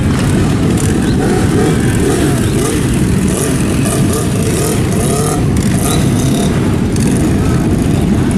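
Motorcycle engines running steadily, with faint voices underneath.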